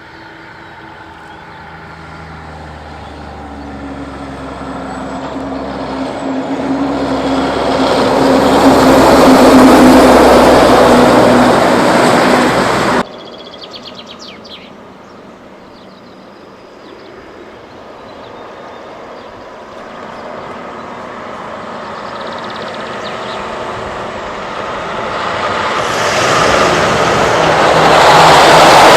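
Kenworth trucks' diesel engines and tyres passing on the road, two in turn. The first grows steadily louder, peaks about ten seconds in and cuts off suddenly a few seconds later; the second builds up and is at its loudest near the end.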